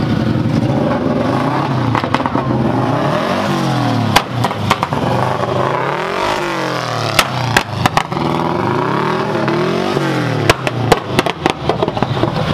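A high-performance car engine revving hard as it pulls away, its pitch climbing and dropping again and again. Sharp exhaust pops crack out over it, with a cluster of them near the end.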